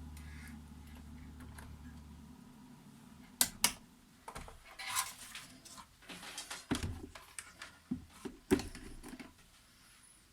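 Scattered light clicks and clatter of test probes and parts being handled on a workbench while LED strips are tested one by one. A steady low hum runs underneath and stops about two seconds in.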